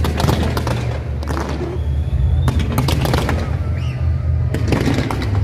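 Fireworks bursting and crackling in rapid clusters: one right at the start, another about two and a half seconds in, and a third near the end. Under them runs a steady, loud low bass, with music playing.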